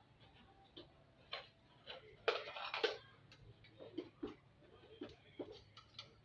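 Scattered light clicks and knocks of tools and metal or plastic parts being handled during a washing machine motor repair, with a louder clattering run a little over two seconds in.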